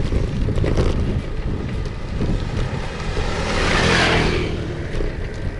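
Wind rumbling on the microphone and road noise during a ride, with a vehicle passing, louder and hissier about four seconds in.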